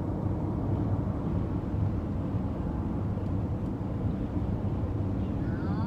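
Steady low rumble of tyre and engine noise inside a moving car's cabin, with no horn or other sudden sound.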